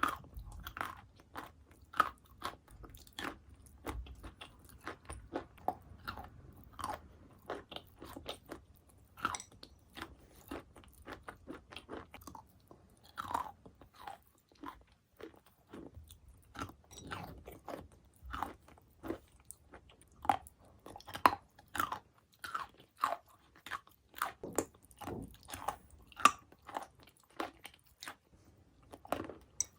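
Close-up crunching and chewing of wet chalk and chalk mixed with clay paste: many short, irregular crunches of varying loudness, several a second.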